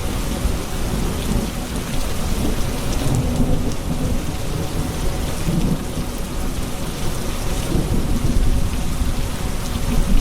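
Steady rain falling on hard surfaces, with a continuous low rumble of thunder underneath.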